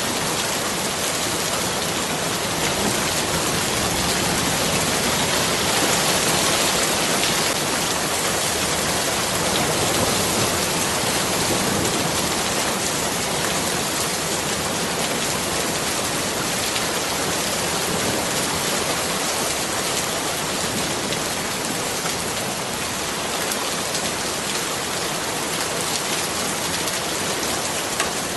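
Steady heavy rain falling and pattering on surfaces, a dense even hiss with no let-up.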